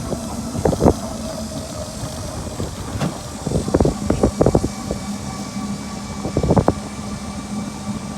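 Riding in a pedicab: a steady running and road hum, with three bouts of sharp rattling knocks as the cab jolts over bumps or road joints.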